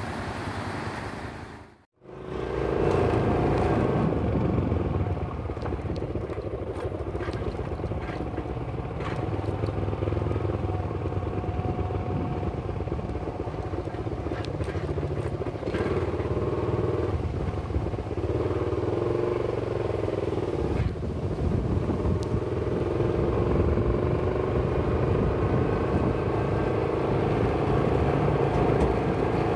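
Small motorcycle engine running steadily at low speed while riding. The sound drops out briefly about two seconds in, then the engine runs on with slight rises and falls in pitch.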